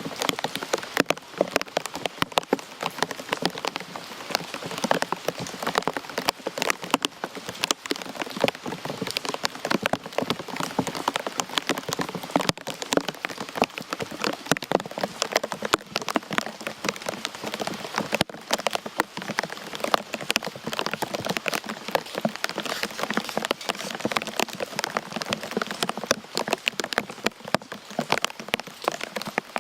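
Steady rain with many close, sharp drop impacts pattering on a hard surface.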